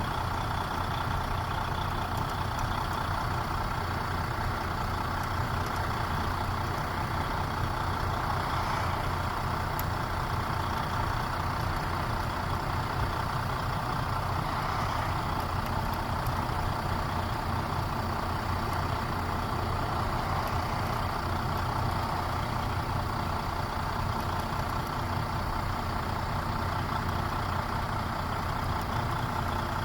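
Truck engine running steadily, an even low drone with no change in pace.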